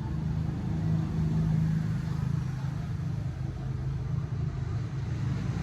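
Motorcycle engine running steadily under way, a low engine hum that swells slightly about a second in.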